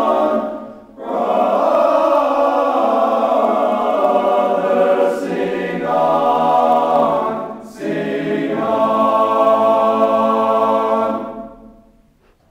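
A small group of men singing a hymn a cappella in harmony, holding long chords with two short breaks between phrases. The final chord dies away about eleven seconds in.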